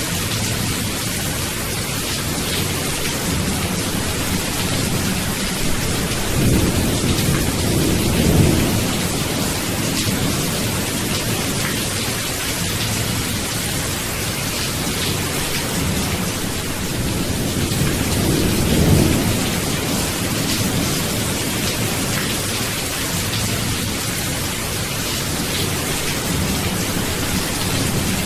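Steady rain falling, with rolling rumbles of thunder. Two rumbles swell up, one about a third of the way in and another about two-thirds in.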